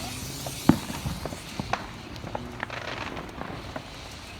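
Fireworks going off, scattered pops and crackles with one sharper bang about a second in.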